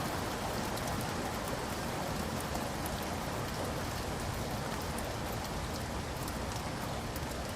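Steady rainfall, an even hiss of rain with the patter of drops striking a surface.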